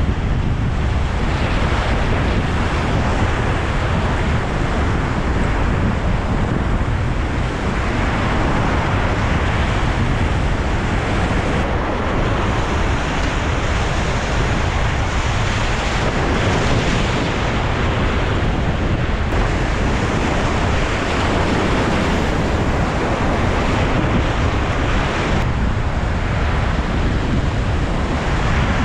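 Whitewater rapids rushing and splashing steadily, with wind rumbling on the microphone.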